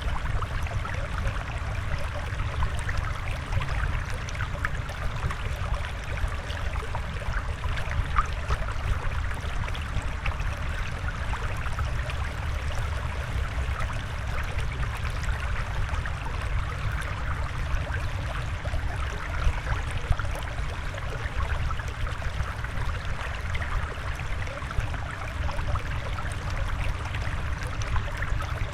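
Flowing water running and trickling steadily, like a small stream, with a low rumble underneath.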